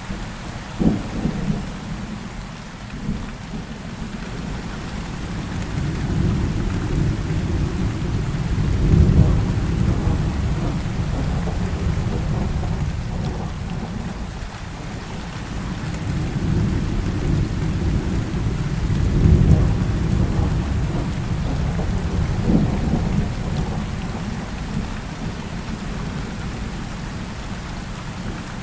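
Heavy rain falling steadily with thunder: a sharp crack about a second in, then two long rolling rumbles that swell and fade, the loudest near the middle and again about two-thirds through.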